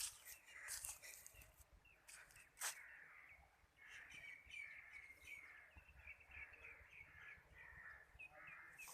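Faint outdoor birdsong: many short bird calls repeating, busiest in the second half. A single sharp click about two and a half seconds in.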